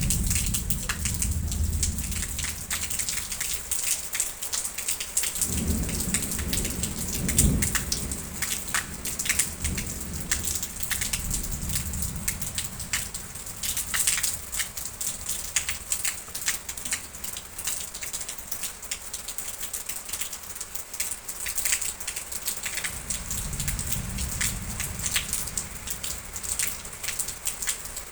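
Steady rain falling and pattering on surfaces, with close drops ticking throughout. Low thunder rumbles under it, at the start, again about five to eight seconds in, and once more near the end.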